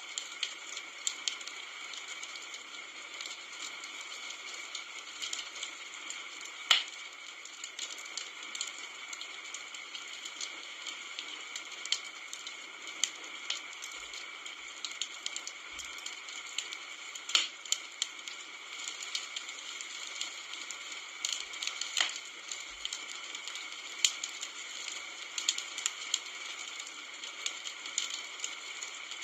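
Wood campfire burning: a steady hiss of flame under frequent small crackles, with a few louder pops and snaps from the burning wood.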